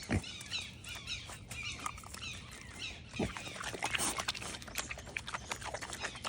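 Pet mini pig making short grunts, with many small clicks and ticks in between.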